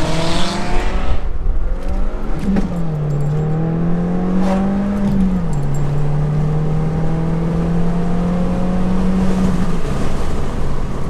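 Subaru's flat-four engine heard from inside the cabin, accelerating up through the gears, its pitch falling at each upshift. It then holds steady at cruising speed and eases off near the end.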